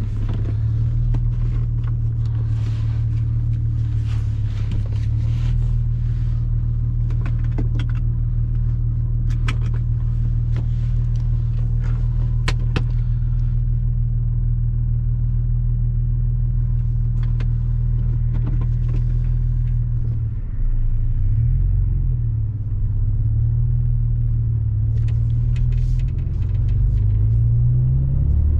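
Porsche Boxster 986's flat-six engine pulling at a steady cruise as a low drone, with scattered sharp ticks over the first dozen seconds. About twenty seconds in, the engine note falls and rises a few times as the revs change, climbing again near the end.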